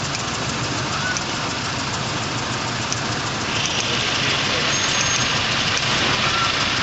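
Toyota Innova gasoline VVT-i engine idling roughly, with one cylinder misfiring. A steady high hiss joins in about three and a half seconds in.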